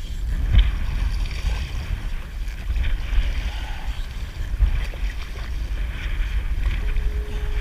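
Kayak moving through choppy ocean water, with splashing swashes that come and go at a slow, uneven rhythm. Heavy wind rumbles on the microphone throughout.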